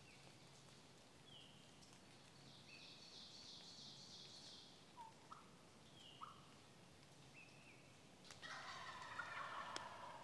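A wild turkey gobbling once, a rattling call of a little under two seconds that comes about eight seconds in. It is preceded by a few short, faint, high bird notes.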